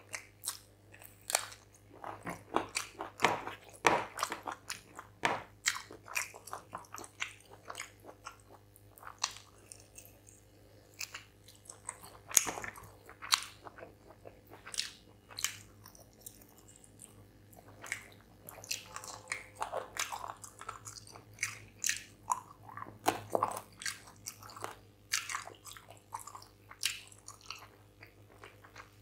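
Close-miked chewing of a mouthful of rice and chicken curry eaten by hand, with irregular wet mouth clicks and small crunches, over a faint steady hum.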